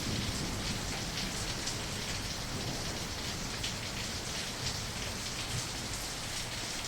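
Steady rain falling: a dense, even hiss with the patter of many individual drops.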